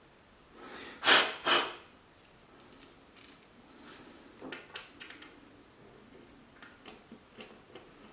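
Two loud, short hissing puffs about a second in, then light clicks and scrapes of a screw and screwdriver being worked at the metal chassis of a Marshall JVM410 valve amplifier, the screw refusing to thread in.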